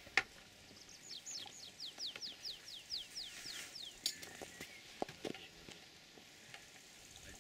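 A bird singing a quick run of about a dozen high whistled notes, each sliding downward, lasting about three seconds. A sharp click sounds just after the start, and a few fainter taps come later.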